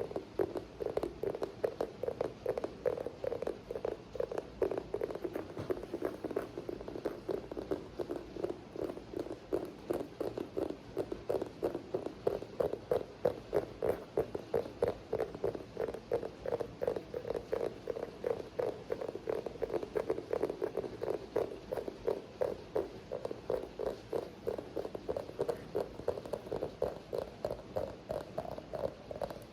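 ASMR tapping: a continuous stream of quick taps, several a second, with a hollow, mid-pitched knock, over a steady background of rain.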